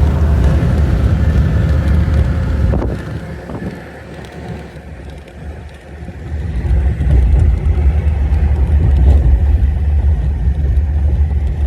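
Low, steady rumble of a car on the move: road and engine noise. It drops away for a few seconds in the middle, then comes back up.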